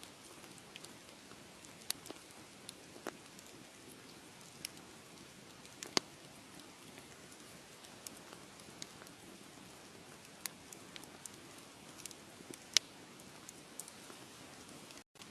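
Wood fire crackling: a soft steady hiss with scattered sharp pops and snaps, the loudest about six seconds in and again about two-thirds of the way through.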